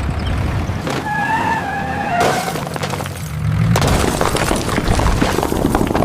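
Cartoon sound effects of a vehicle mishap. Under a low rumble there is a squeal about a second in, then a long clattering crash of breaking and shattering from about four seconds in.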